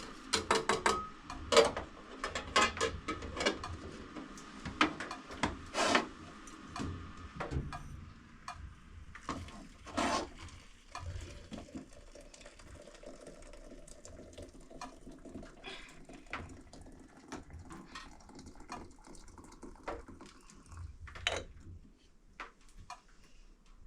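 Irregular clinks and knocks of dishes, pots and utensils being handled, busiest in the first several seconds and then more scattered.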